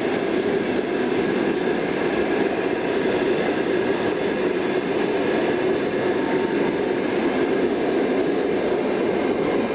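Passenger train coaches rolling along the rails with a steady rumble of wheels on track.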